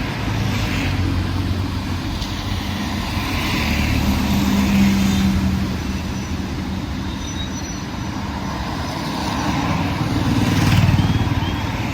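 Busy city road traffic: engines of cars and other motor vehicles running as they pass close by, with a steady low rumble that swells about four seconds in and again near the end.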